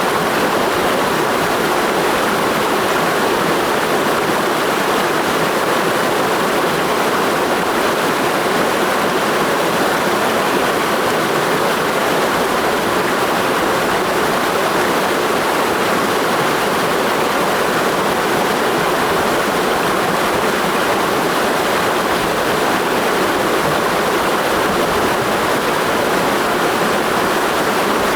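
Mountain stream rushing steadily, a dense, even sound of flowing water with no break or change.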